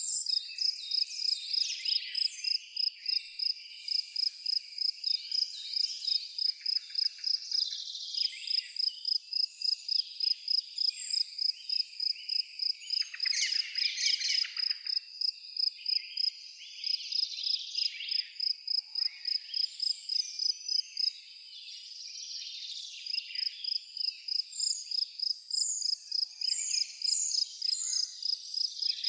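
A cricket chirping steadily, about three chirps a second, with a short pause a little past two-thirds of the way through. Forest birds sing and twitter over it.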